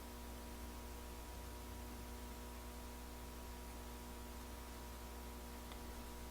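Faint steady electrical hum with a few thin constant tones over a light hiss, and one faint tick near the end.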